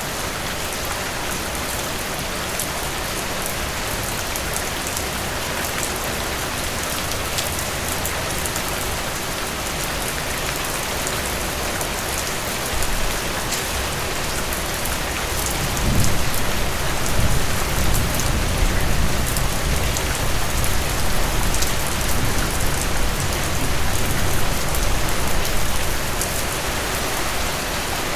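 Heavy rain falling steadily, with a low rumble of thunder coming in a little past halfway and rolling on for about ten seconds before fading back into the rain.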